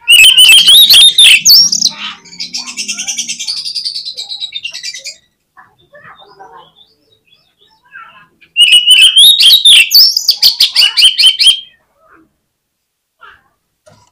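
Oriental magpie-robin (kacer) in full, loud song: a burst of rapid, sharply varied high whistled notes that runs into a fast rattle of repeated notes, then after a pause of a few seconds a second loud burst of varied whistles about eight and a half seconds in.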